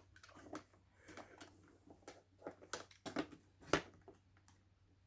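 Scattered light clicks and taps of 3D printer parts being handled and fitted together during assembly, with one sharper knock a little past the middle.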